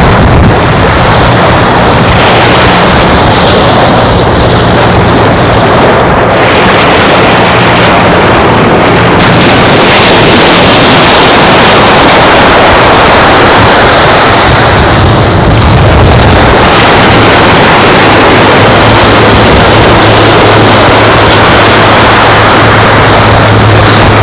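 Strong wind rushing over the microphone with surf, and a steady low engine hum underneath that drops out for a few seconds around the middle.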